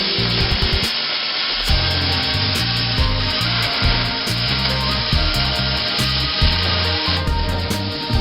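A steady, even rasping noise, like an abrasive tool working on a surface, that stops about seven seconds in. A music track with a bass line and a beat plays throughout.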